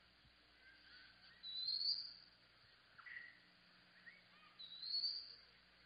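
Birds calling: a high, rising whistled call about one and a half seconds in and again about five seconds in, with shorter chirps between, over a faint steady hum.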